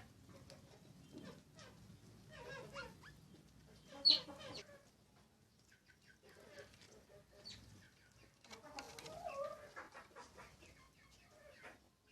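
House sparrows and other birds calling in short, scattered bursts, with one louder, high chirp about four seconds in.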